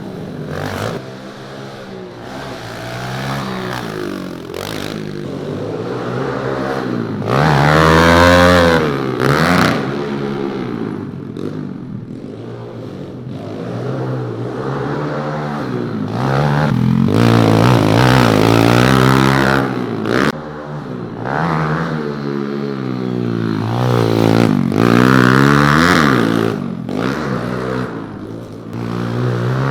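Pit bike engines revving up and down over and over as the bikes ride the track, the pitch climbing and dropping with each throttle blip and shift. The sound swells loudest as a bike comes close, about a quarter of the way in, again past the middle and again later on.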